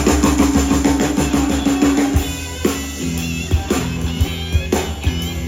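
Live blues band playing an instrumental passage on drum kit and electric guitar. A dense, fast rhythm over a held low note gives way about two seconds in to sparser drum hits, with guitar notes that bend in pitch.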